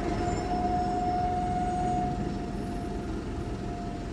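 Car driving at steady speed, a low rumble of road and engine noise with a faint steady whine running through it.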